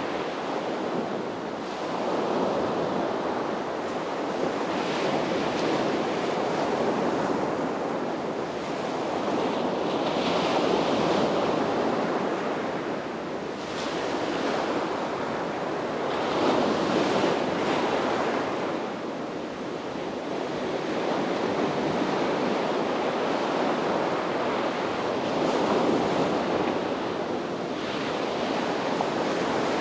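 Sea waves breaking and washing up on a beach, a continuous surf that swells and eases every few seconds, with light wind on the microphone.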